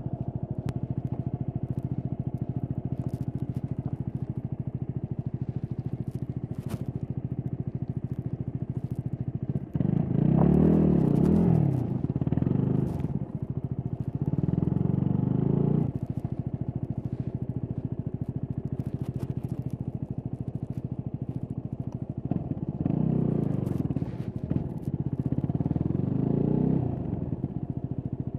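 Stock Yamaha WR250X's 250 cc single-cylinder four-stroke engine running steadily at low revs, then revving up and back down in several surges about ten seconds in and again past twenty seconds.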